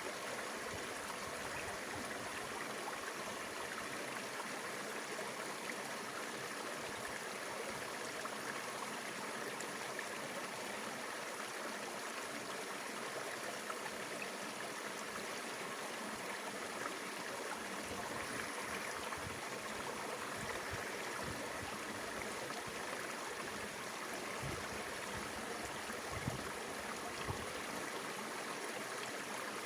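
Mountain river flowing, a steady rush of moving water. A few brief low thumps come near the end.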